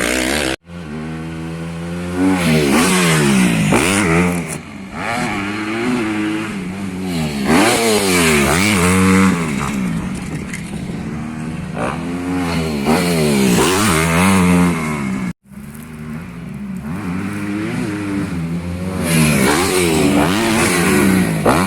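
Motocross bike engine revving up and down over and over as it accelerates, shifts and backs off. The sound cuts out briefly twice, about half a second in and about fifteen seconds in.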